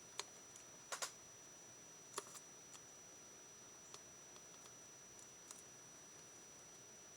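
Near silence broken by a few sharp clicks and taps of small paper-crafting tools and paper being handled on a work surface, the loudest a quick double click about a second in. A faint steady high whine runs underneath.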